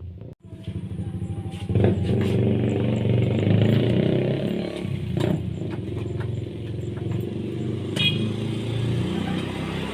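Motorcycle engine cranking for about a second, then catching and running steadily once the ignition is tried again.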